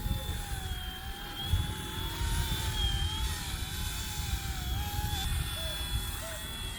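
Small electric RC ERA 186C Pro helicopter in flight, its motor and rotor whining steadily with the pitch wavering slightly as the throttle shifts, over a low rumble of wind on the microphone.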